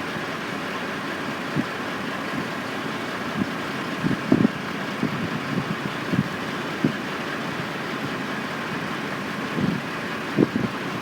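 Steady drone of construction machinery engines running at a work site, with a few brief low thumps, the loudest about four seconds in and near the end.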